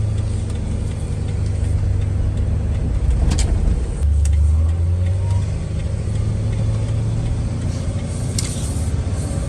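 The 5.4-litre V8 of a 2000 Ford F250, heard from inside the cab, running smoothly as a steady low rumble whose note changes about four seconds in. Its throttle body and idle air control valve have just been cleaned to cure a rough idle.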